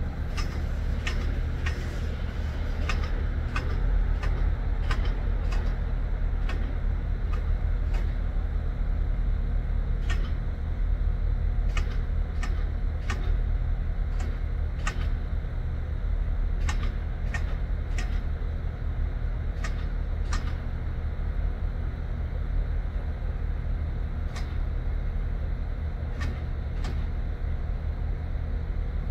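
A train at the station: a steady low drone with a deep hum, overlaid by many irregular sharp clicks and rattles.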